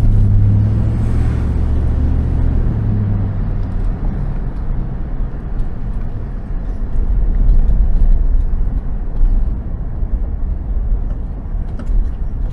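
Car engine and low road rumble heard from inside the car, with a steady engine hum that dies away about three seconds in.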